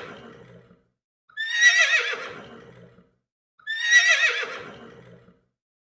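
Horse whinnying, the same quavering call that falls in pitch played over and over, about every two seconds: a repeated sound-effect recording.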